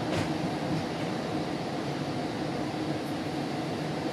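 Steady rumble of a GO Transit commuter train running along the tracks, heard from inside a bilevel passenger coach, with two faint ticks, one just after the start and one about three seconds in.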